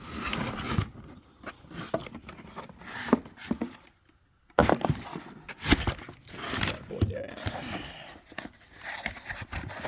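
Cardboard box and packaging being opened and handled by hand: irregular rustling, scraping and light knocks, with a brief complete dropout about four seconds in.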